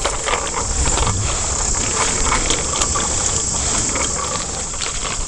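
Riding a bicycle with a head-strap camera: steady wind rumble on the microphone and a rushing ride noise, with scattered small clicks and rattles.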